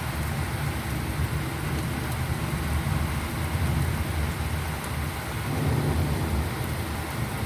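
Torrential rain drumming on a galvanized metal roof, a steady dense wash of sound, with a deeper, louder swell about five and a half seconds in.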